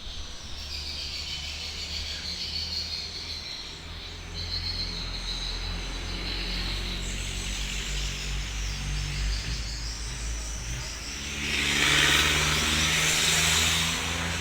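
A vehicle engine running with a steady low hum, while insects chirp high and thin above it. About eleven seconds in, a loud rushing noise swells up for about three seconds and then fades.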